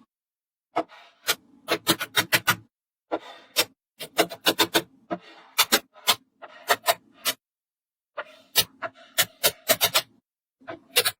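Small magnetic balls clicking sharply as they snap together, with a rubbing, rolling sound between the clicks as they slide over one another. The clicks come in several quick bursts separated by brief silences.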